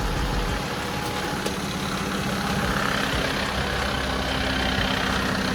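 Diesel engine of a 2023 Western Star dump truck idling steadily.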